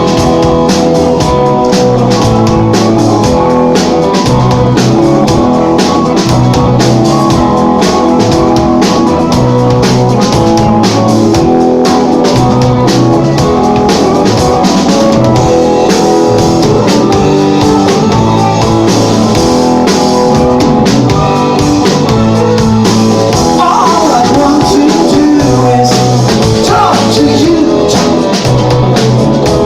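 Rock band playing a song, with drum kit and guitar, loud and steady throughout.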